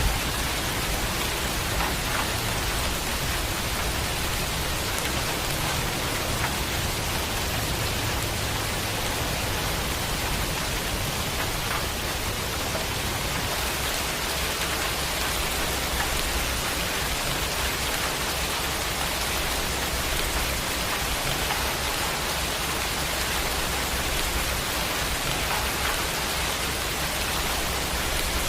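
Steady, even rain falling, with faint scattered drop ticks and a low rumble underneath.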